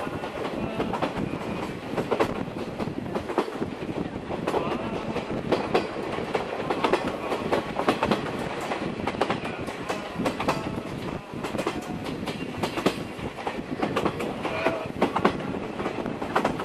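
A passenger coach of a steam-hauled train running along the track, with a steady rumble and frequent irregular clicks and clatter from the wheels and the running gear.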